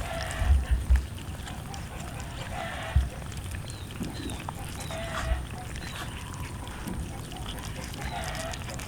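Cats chewing and tearing at roast chicken: wet, clicky chewing and smacking, with a few low bumps and faint short chirps.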